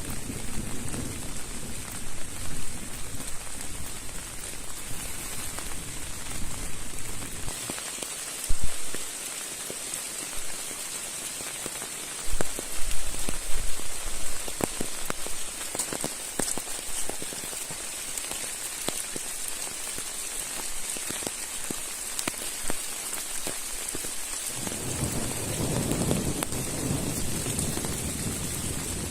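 Steady rain falling, with many sharp drop hits throughout. A low rumble sits under it for the first few seconds and returns over the last few.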